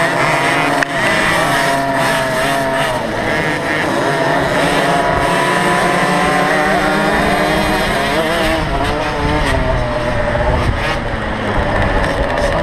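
Small 50cc two-stroke motocross bike engines racing, their pitch rising and falling as the riders open and close the throttle.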